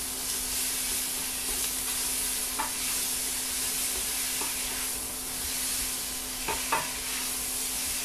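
Curry paste and sliced onions sizzling steadily in hot oil in a pan, with a few brief clicks of the stirring utensil against the pan.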